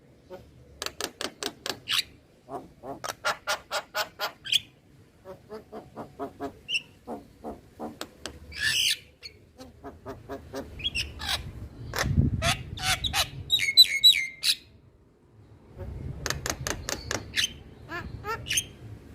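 Male Javan myna calling: fast runs of sharp, clicking chatter mixed with harsh squawks and a few whistled notes, with a short pause about three-quarters of the way through.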